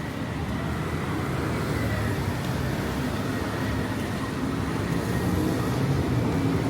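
City street traffic: a steady rumble of vehicle engines and tyres that grows gradually louder toward the end.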